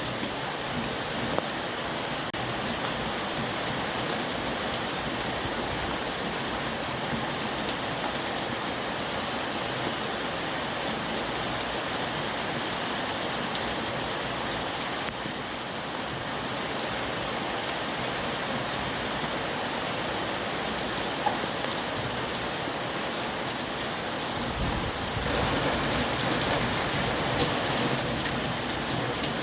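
Heavy rain falling steadily, a dense even hiss of drops on surfaces. About five seconds before the end it grows louder and deeper.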